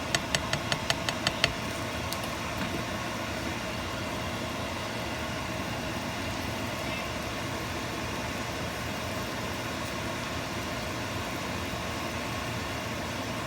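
A quick run of about eight sharp taps in the first second and a half, then a steady mechanical hum.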